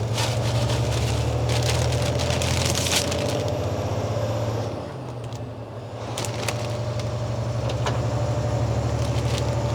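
Truck engine and road noise heard from inside the cab while driving: a steady low hum that eases off about five seconds in, then picks up again, with a few faint rattles.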